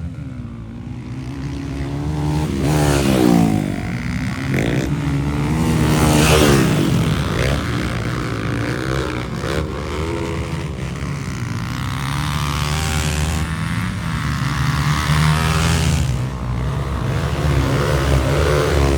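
Motocross dirt bike engine revving hard and repeatedly rising and falling in pitch as the throttle is opened and closed, loudest about three and six seconds in.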